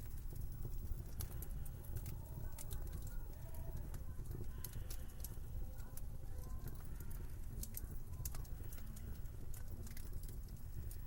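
Wood fire in a fireplace crackling, with scattered sharp pops and snaps over a steady low rumble. A faint wavering whistle comes and goes from about two seconds in.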